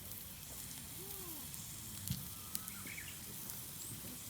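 Food sizzling softly in a pan, a steady hiss broken by a few sharp ticks.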